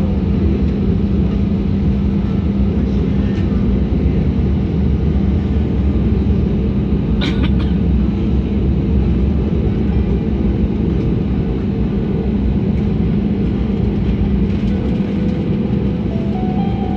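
Jet airliner cabin noise: a steady, loud rumble of engines and airflow with a constant low hum, heard from inside the cabin. A single sharp click about seven seconds in.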